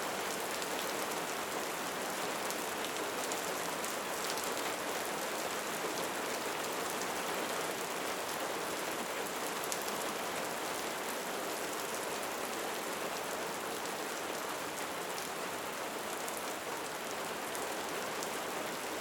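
Steady rain falling on a surface, an even hiss with scattered drop patter.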